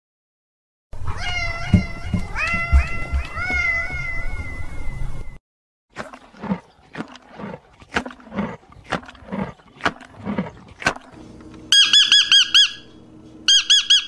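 A string of high, wavering mewing calls from a Eurasian lynx, then a run of short, sharp animal calls about twice a second. Near the end, a blue-and-yellow macaw squawks in two fast runs of harsh repeated calls.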